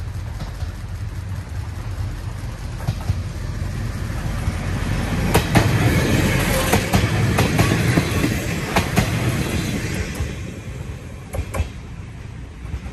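Train running past on the rails, a low rumble that builds to its loudest in the middle with a string of wheel clacks over the rail joints, then fades away.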